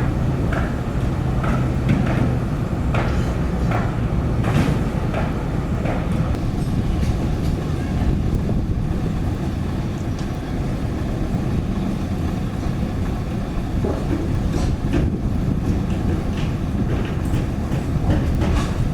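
Heavy construction machinery's diesel engine running steadily, with a scatter of short metallic knocks and clanks over it, several in the first few seconds and more near the end.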